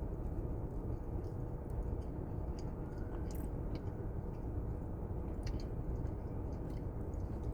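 A person chewing a mouthful of double chocolate donut, with small scattered mouth clicks, over a steady low background rumble.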